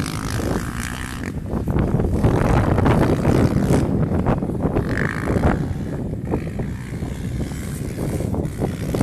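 Trail motorcycle engine running under a heavy, steady low rumble, with scattered short knocks throughout.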